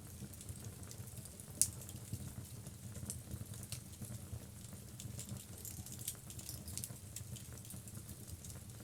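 Logs burning in a fireplace: steady crackling with many small pops and one louder snap about a second and a half in, over a low steady rumble.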